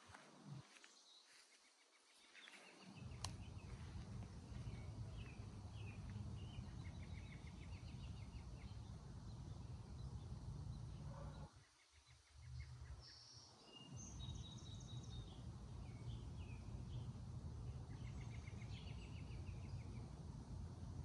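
Small birds chirping and trilling, faint, with a low rumble underneath that drops out for a few seconds at the start and again about halfway through.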